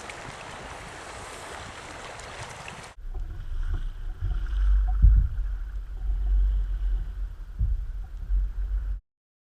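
Steady rush of water and wind, then after a sudden cut, gusting wind buffeting the microphone with a low rumble. The sound cuts off abruptly near the end.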